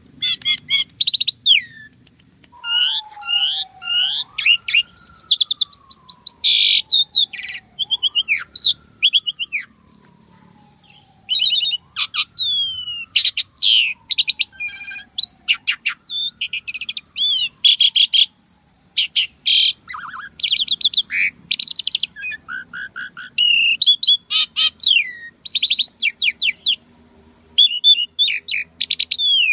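Asian pied starling (jalak suren) singing without a break: a rapid, varied stream of chirps, whistles and mimicked phrases. In the first half a lower whistle slides slowly downward and repeats every three to four seconds.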